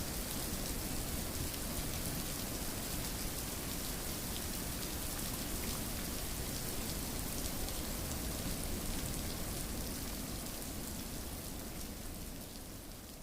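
Steady rain falling: a dense, even hiss with many small drop ticks, beginning to fade out near the end.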